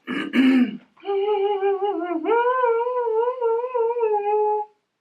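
A woman's voice: a short exclamation, then a long hummed tune that wavers up and down, stepping higher about halfway through and stopping shortly before the end.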